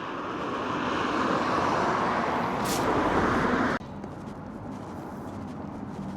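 A vehicle's road noise swells steadily for a few seconds and then cuts off suddenly a little past halfway. Fainter outdoor background noise follows.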